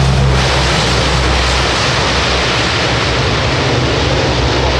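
C-130 Hercules's four turboprop engines running, heard as a loud, steady rushing noise with a low engine hum that weakens about half a second in.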